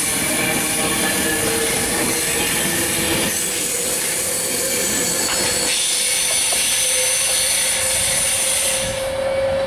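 Virgin Class 390 Pendolino electric train running along the platform: loud, steady rush of wheels on rail with a steady whine that edges slightly upward. Near the end the high hiss drops away.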